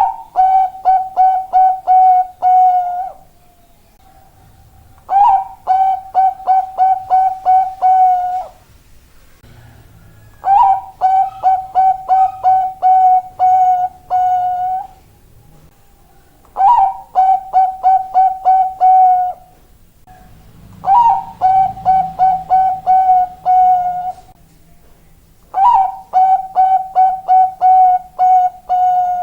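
A zebra dove (a Thai 'bangkok' perkutut) sings its cooing song six times, about every five seconds. Each phrase opens with a short rising note and runs into a quick string of about eight clear, repeated coos on one pitch.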